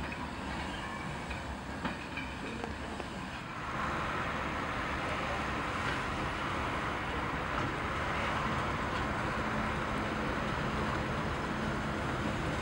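Train noise from a goods train on the line, with a Class 08 diesel shunter's engine running; about four seconds in it becomes louder and steady as the locomotive comes along the track.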